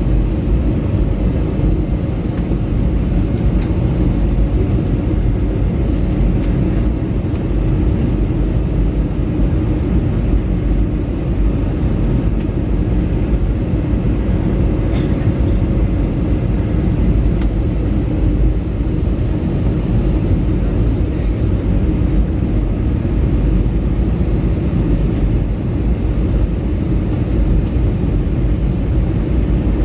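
Steady in-flight cabin noise of an Airbus A321neo: an even, low rumble of engines and airflow, with a faint steady hum.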